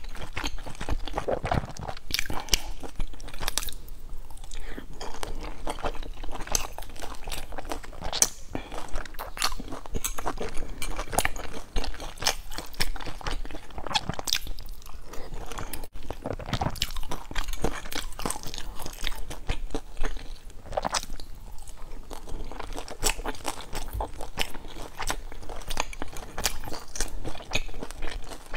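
Close-miked chewing and biting of dumplings, a dense, irregular run of sharp, wet mouth clicks and crunches.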